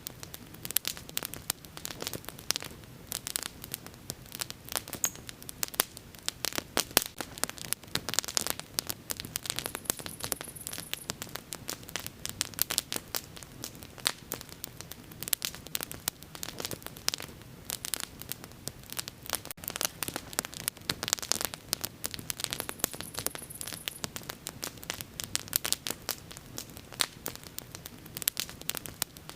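Wood bonfire burning with dense, irregular crackling and popping over a soft low rush of flame, with two short high hisses partway through.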